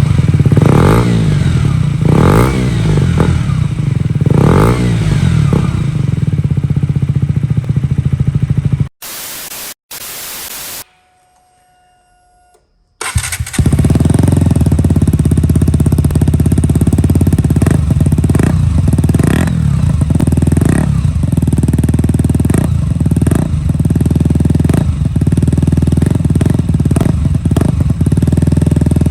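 A KTM Duke 125's single-cylinder four-stroke engine running through an aftermarket Akrapovic-style slip-on exhaust, revved again and again. About nine seconds in it breaks off into two short bursts of hiss and a few seconds of near silence. It then comes back running, with short throttle blips.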